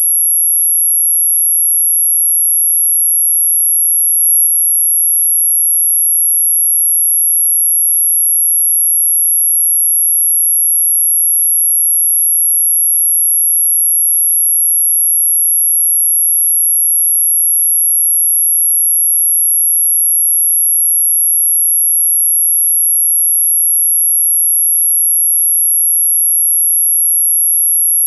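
Electronic anti-mosquito repellent tone: one steady, very high-pitched pure tone, held without a break.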